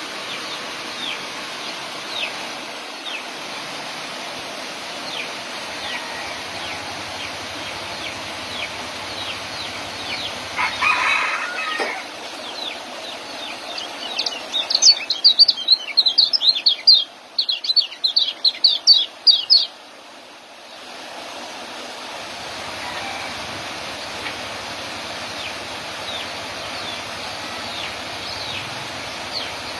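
Young kecial songbird twittering in soft, quick, descending chirps throughout. About 14 seconds in it breaks into a loud burst of rapid high notes lasting about five seconds, its strong 'joss' song, and a short rustle comes about 11 seconds in.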